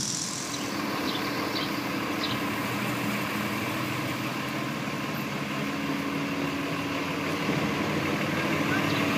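Truck engine idling steadily, growing a little louder near the end.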